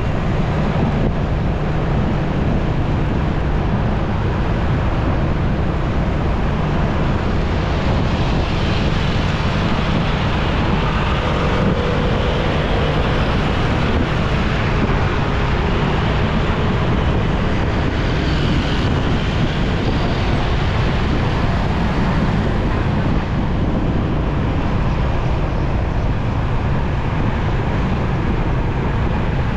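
Motorcycle riding in traffic: steady engine and road noise with low wind rumble on the microphone, a few faint brief tones from other traffic around the middle.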